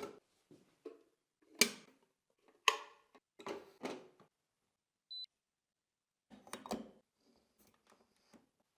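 Sharp clicks and knocks of espresso machine parts being handled, with one short high beep about five seconds in.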